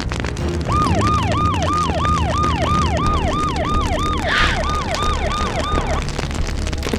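Emergency vehicle siren, a rapid repeating wail that drops in pitch about three times a second, over background music. It starts under a second in and stops about a second before the end.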